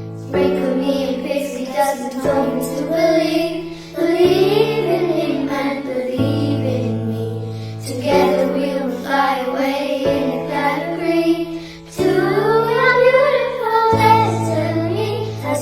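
A group of young girls singing a slow song together over a sustained accompaniment whose chords change about every two seconds.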